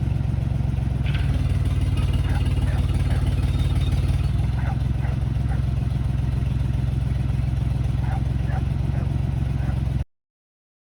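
An engine running steadily, with a few short clattering sounds over it. The sound cuts off abruptly about ten seconds in.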